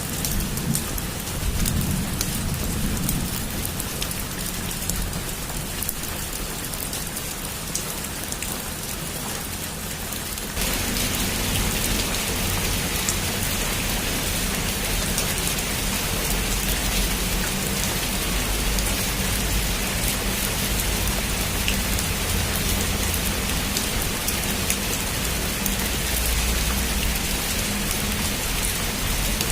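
Heavy rain pouring steadily, with a low rumble of thunder underneath. About ten seconds in, the rain abruptly gets louder and fuller.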